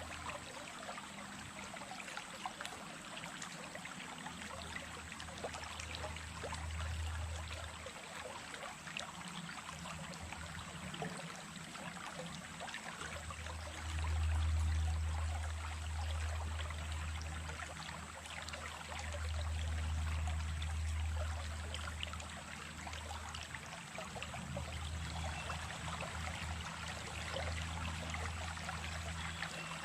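Running water of a small stream, babbling and trickling steadily. Beneath it a low rumble swells and fades, loudest about halfway and again about two-thirds of the way through.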